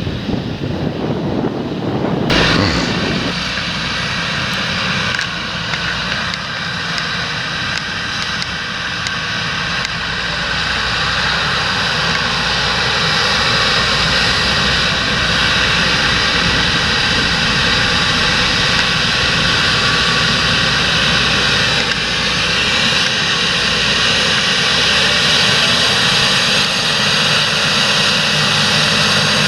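Large John Deere tractor's diesel engine running steadily under load while working the field, with a steady high whine over the engine. It grows gradually louder as the tractor comes closer.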